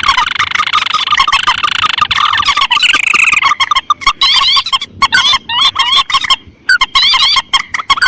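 Bird-lure recording of rice-field rails, the mandar and the tikusan, several calls overlapping: dense chirping calls with sharp clicks, breaking into quick repeated call notes with short gaps about halfway through.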